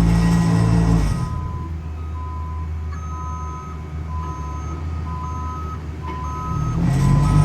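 Backup alarm on road-paving equipment beeping over and over at two alternating pitches, over the low rumble of diesel engines. A louder engine runs close by in the first second and comes back in near the end.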